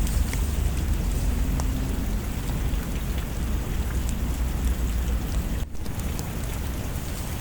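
Steady heavy rain falling, with a deep low rumble under it and a few faint ticks scattered through. The sound briefly drops out for an instant a little past the middle.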